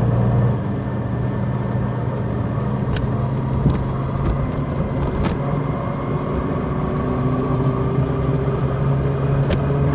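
Large motorcycle engine running while riding. The engine note drops about half a second in as the throttle eases, then picks up again near the end.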